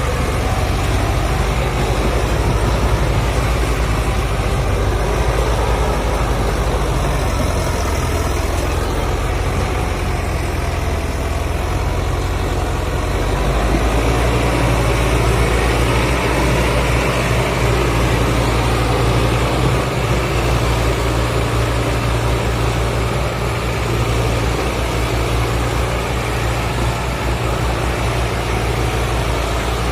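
Sonalika tractor's diesel engine running steadily and heavily, as when straining to pull a trolley out of mud; its low drone changes pitch about halfway through.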